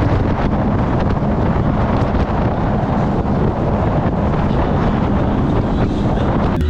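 Wind buffeting the camera microphone on a motorboat under way: a steady, loud rush of noise.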